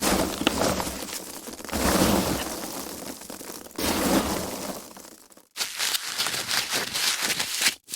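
Foam packaging being handled and crushed, in a run of separate takes that start and stop abruptly, with brief gaps about five and a half seconds in and near the end. The last couple of seconds are a stretch of dense crackling.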